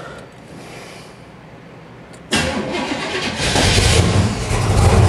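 Cold start of a boosted 4.3 V6 pickup engine. After a quiet couple of seconds the engine suddenly cranks and catches, then runs and gets louder about a second later.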